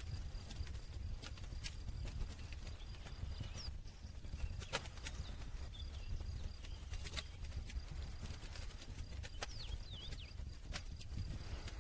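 Campfire crackling: irregular sharp pops and snaps over a low steady rumble, with a couple of short faint high squeaks about a third of the way in and again near the end.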